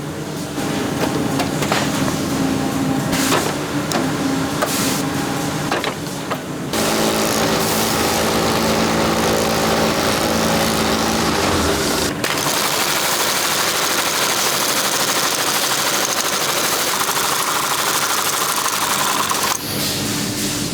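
Boot-making workshop machinery running steadily, in several separate stretches that change sound abruptly about a third of the way in, near the middle, and near the end.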